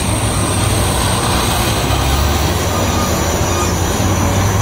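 Heavy vehicle engine running with a steady low drone, mixed with road noise.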